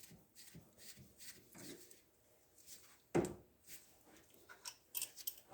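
A few faint clicks and knocks of tools being handled, with one sharper knock about three seconds in.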